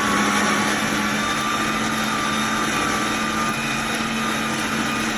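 Electric juicer motor running steadily under load: an even hum with a thin, higher whine over it.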